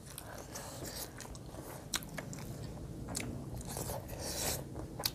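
Chewing and mouth sounds of people eating rice and curry by hand, with scattered small clicks and smacks.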